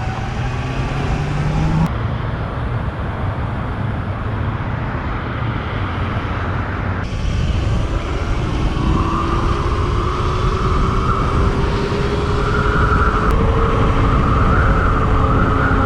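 Sur Ron X electric dirt bike riding in traffic: a steady low rumble of wind and road, with the electric motor's whine slowly rising in pitch from about eight seconds in as the bike gathers speed.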